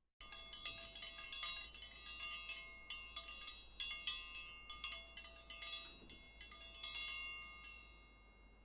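Chime-style alarm sound effect: many quick, irregular metallic strikes with high ringing tones that overlap, dying away about a second before the end.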